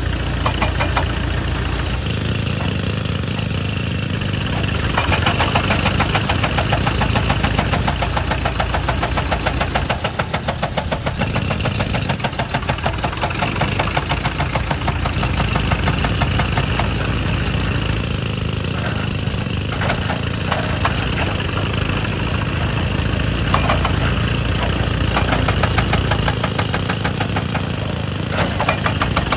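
Excavator's diesel engine running under load while a hydraulic rock breaker hammers rapidly on rock, in long spells of fast blows broken by short pauses.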